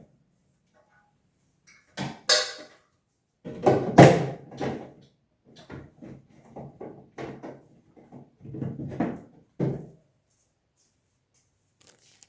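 Knocks and clatters of hard objects being handled: two sharp knocks about two seconds in, a loud cluster around four seconds, then a run of quicker, quieter knocks that stops near ten seconds.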